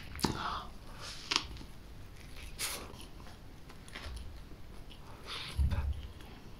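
Close-up eating sounds: biting and chewing a soft rolled soybean pancake (jianbing) with fried-sauce filling, with a few sharp mouth clicks and a short low thump about five and a half seconds in.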